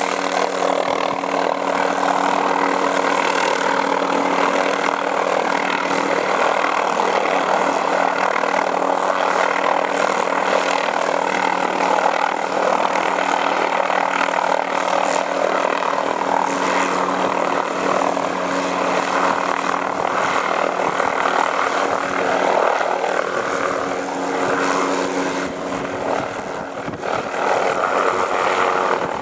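Helicopter running steadily, its rotor and engine making a continuous drone that eases off slightly a few seconds before the end.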